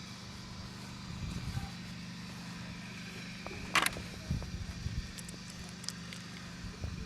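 Suzuki GS500E's air-cooled parallel-twin engine idling steadily, with one sharp knock just under four seconds in and a few lighter knocks after it.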